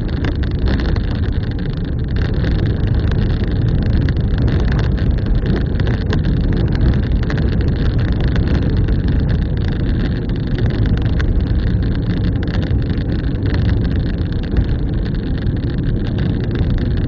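A vehicle driving along: a steady, loud rumble of engine and road noise, with many small clicks and rattles throughout.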